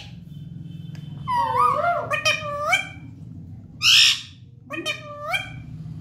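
Indian ringneck parrot vocalizing: two runs of high, pitch-bending chattering calls, with one loud harsh squawk about four seconds in.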